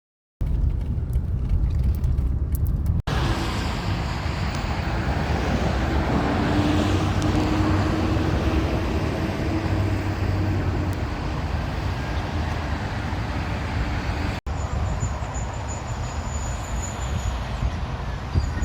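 Highway traffic noise: a steady rumble of passing vehicles, broken by two very brief dropouts, about three seconds in and near the fourteen-second mark.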